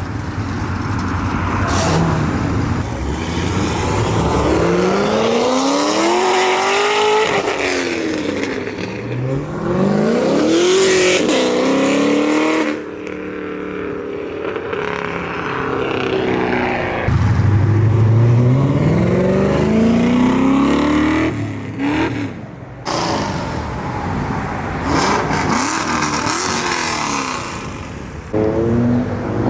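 Several performance cars revving and accelerating hard. Each engine's pitch climbs steeply, drops at a gear change and climbs again, in repeated runs.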